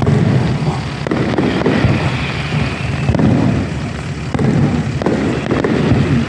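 Fireworks display: repeated sharp bangs over a continuous low rumble of booming shells.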